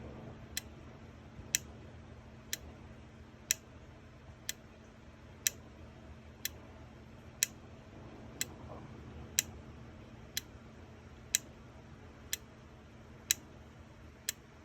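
A relay clicking about once a second as the Williams System 11C MPU's coil test fires the solenoid outputs one after another. The clicks are sharp, with every other one louder, over a faint steady hum.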